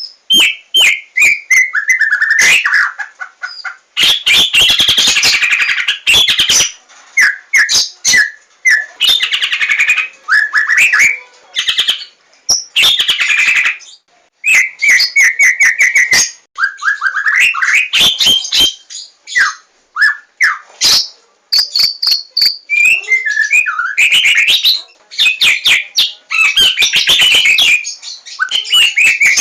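Javan white-rumped shama (murai batu, Larwo type) singing loudly in a long, varied song: clear whistled notes, fast runs of sharp repeated chips, and harsher rattling phrases, delivered in bursts with short pauses between them.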